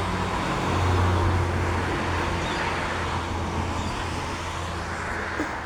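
A motor vehicle's engine running close by, a low steady hum over road noise that swells about a second in and then slowly eases off.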